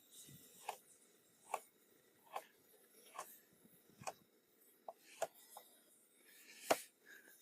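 Kitchen knife cutting vegetables on a cutting board: faint, evenly spaced knocks about one a second, with a quicker pair near the middle and a louder knock near the end.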